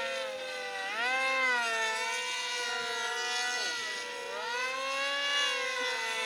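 Electric motors and propellers of several radio-controlled model planes whining together, each pitch rising and falling as the planes throttle and pass overhead.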